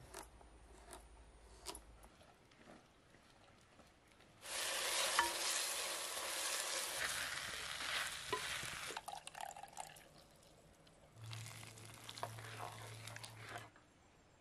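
Food sizzling as it fries, in two stretches: a loud one of about four and a half seconds starting about four seconds in, and a shorter one near the end.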